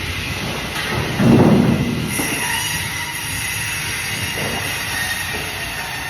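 Band saw running and cutting fish, a steady metallic whine with a louder surge about a second in as the blade works through.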